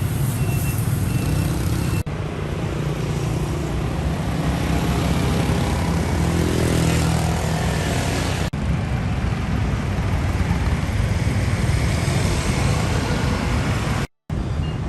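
Street traffic with motorbike engines and tyre noise running steadily, and one engine rising in pitch as it passes around the middle. The sound changes abruptly twice, and it drops out for a moment near the end.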